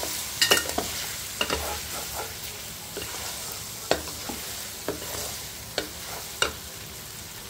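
Chicken pieces frying in ghee with onions and spices in a metal pot, sizzling steadily, while a wooden spatula stirs them, scraping and knocking against the pot at irregular intervals.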